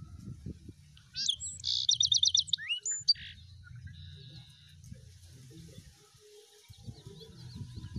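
A songbird singing: a quick run of rapid, high chirping notes about a second in, lasting about two seconds, then a fainter high phrase. Underneath are low rustles and soft knocks of fabric and an embroidery hoop being handled.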